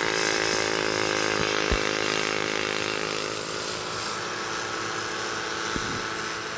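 Old racing motorcycle engines running at high, fairly steady revs with a buzzy, chainsaw-like note that slowly fades after about three seconds. A sharp knock sounds a little under two seconds in.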